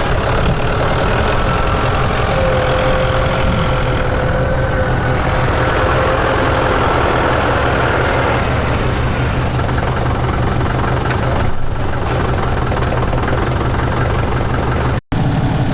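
Engine running steadily at a low, even idle, with a faint whine a few seconds in. The sound cuts out for an instant near the end.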